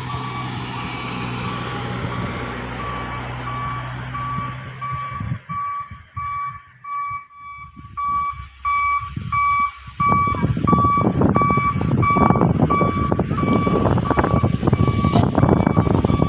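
A truck's reversing alarm beeps steadily, about two beeps a second, over a running diesel truck engine. About ten seconds in, a loud, rough rumbling takes over.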